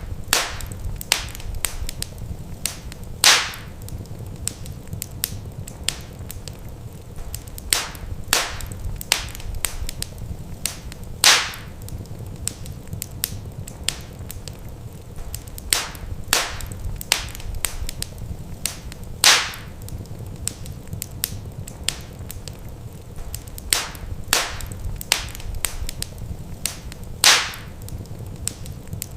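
Wood fire crackling in a fireplace: a steady low rumble of flames under frequent small crackles, with a louder pop about every eight seconds.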